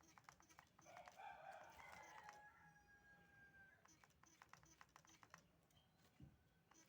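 A rooster crowing once, faintly, starting about a second in and drawn out for about three seconds, over a run of light clicking taps.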